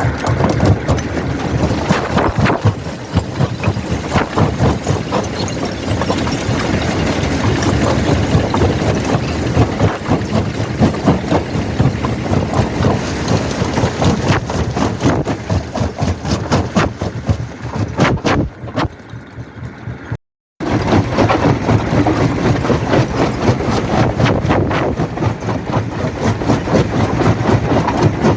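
Quarry primary jaw crusher running and breaking rock: frequent knocks and cracks of stone being crushed over a steady heavy machine drone. It goes quieter briefly near 18 seconds in, then cuts to a split-second gap of silence and comes back at full level.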